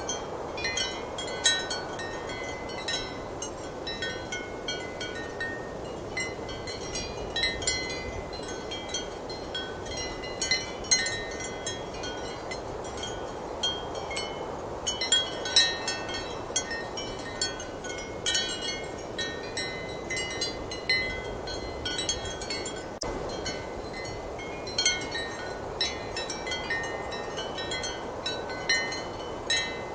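Ceramic wind chimes clinking irregularly in strong wind, each strike a short bright ring, over a steady rush of wind.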